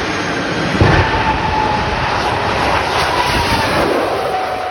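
Jet car's turbine engine at full power on its launch run: a loud rushing roar with a whine that drifts slowly lower, peaking about a second in and fading near the end.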